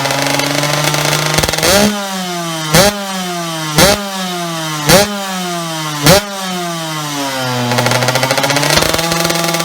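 Suzuki RM 125 two-stroke motocross engine through an aftermarket exhaust: it idles, then the throttle is blipped five times about a second apart, the revs dropping away after each blip, before it settles back to idle near the end.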